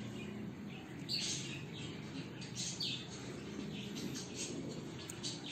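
Small birds chirping in the background: short, high chirps every second or so, over a low steady background noise.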